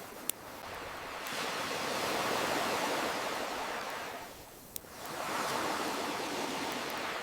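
Ocean waves surging in and drawing back: the wash swells, fades a little past halfway and swells again. Two sharp pops from a crackling campfire come through, one just after the start and one a little past halfway.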